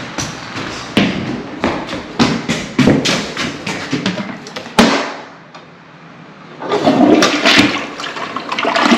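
Toilet flushing: loud rushing, gurgling water that dies down about five seconds in, then surges again.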